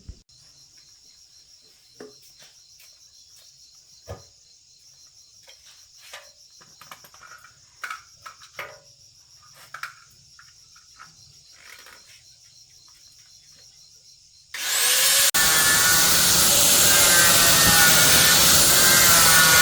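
Scattered light clicks and taps of hand work on metal parts, then near the end a power tool starts abruptly and runs loudly and steadily with a wavering whine.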